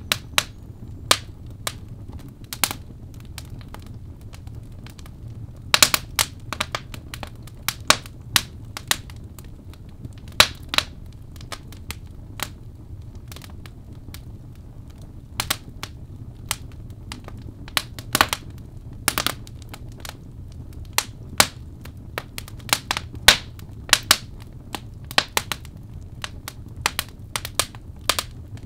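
Birch logs burning in a fireplace, crackling and popping with irregular sharp snaps over a low steady rumble of flame. The pops come in scattered clusters, a few of them loud.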